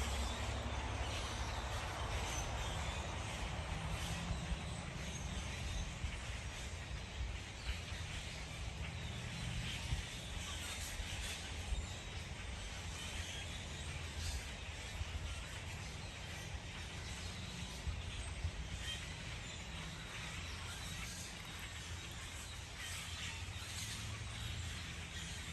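Outdoor background noise: a steady low rumble with a thin hiss, broken by a few sharp taps.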